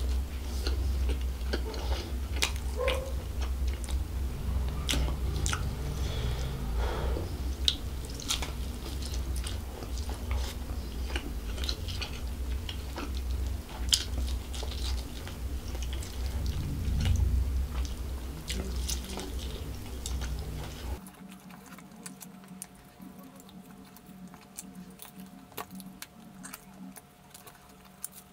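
Close-miked chewing and biting of fried chicken and fried rice, with many wet mouth clicks and smacks. About 21 seconds in the sound drops suddenly to a much quieter level with only faint clicks.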